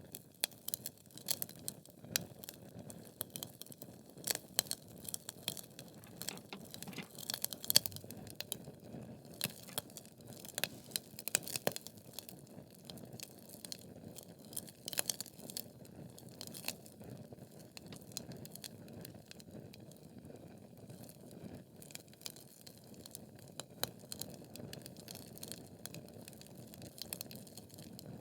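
Wood fire of burning logs crackling: irregular sharp pops and snaps, one loudest pop just under 8 seconds in, over a low steady rumble of the flames.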